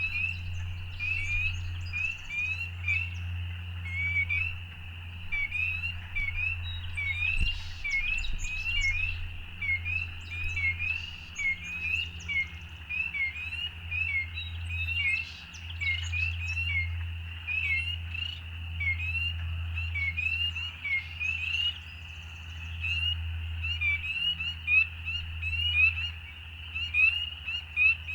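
A dense chorus of spring peepers: many frogs giving short, rising peeps that overlap continuously. A steady low rumble runs underneath.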